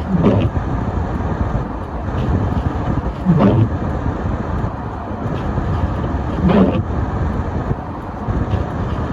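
Car driving on a snowy road: steady tyre and engine noise, with a short sweeping sound repeating about every three seconds, four times.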